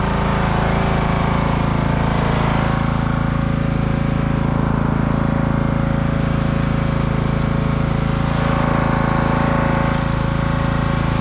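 Husqvarna riding-mower engine on a custom log skidder, running steadily at high idle with the winch engaged for a pull.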